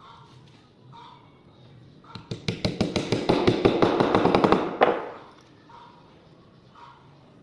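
A rapid run of sharp taps, about ten a second, lasting about two and a half seconds and starting about two seconds in.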